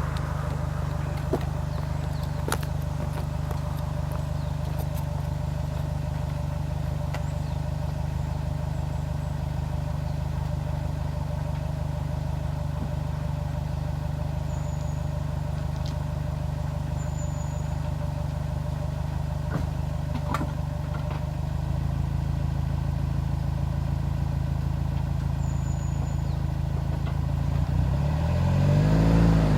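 Subaru Impreza's flat-four boxer engine idling steadily, heard through its exhaust, with a few light clicks. Near the end the engine revs up, its pitch rising and the sound getting louder.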